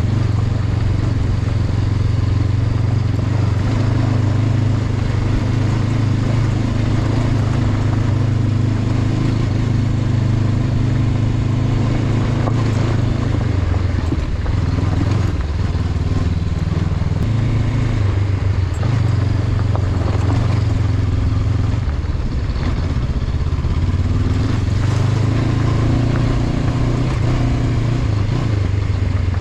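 Honda CB500X's parallel-twin engine running steadily at low revs, its note shifting a little around the middle, with occasional short knocks.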